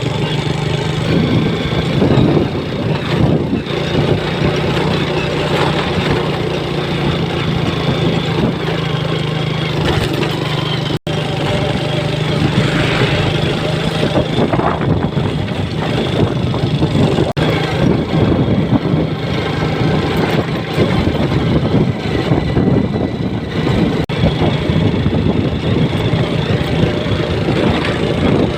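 An engine running steadily, holding a constant low drone, with a momentary break about eleven seconds in.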